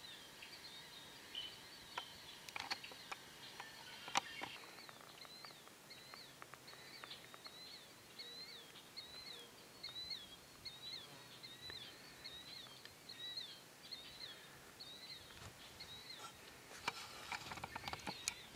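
Faint outdoor ambience with a small bird calling: a short chirp repeated about twice a second, stopping a couple of seconds before the end. A few sharp clicks come early on and again in a cluster near the end.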